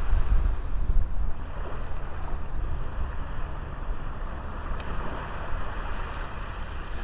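Waves washing onto a small sand beach, with wind buffeting the microphone as an uneven low rumble.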